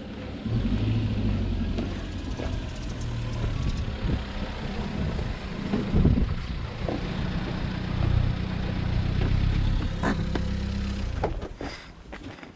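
A motor vehicle's engine running steadily with a low hum, joined by a couple of sharp knocks.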